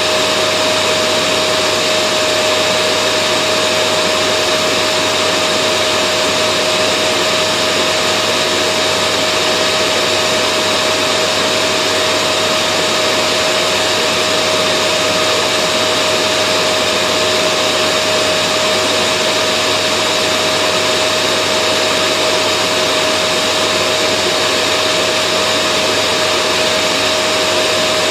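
Vacuum cleaner running continuously: a steady, unchanging whoosh of air with a constant motor whine.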